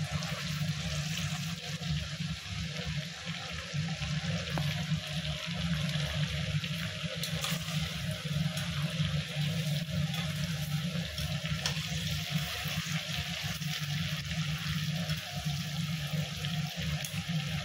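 Chicken pieces frying in hot oil: a steady sizzle with light crackling, over a steady low hum.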